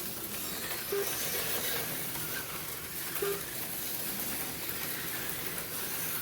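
HO-scale slot cars running on the track, a steady hissing whir of their small motors and pickup shoes on the rails. Two short beeps come about a second in and again past three seconds.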